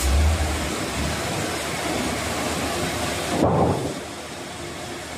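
Wood-cutting machine running with a loud, noisy rumble; the sound swells about three and a half seconds in, then drops a little quieter.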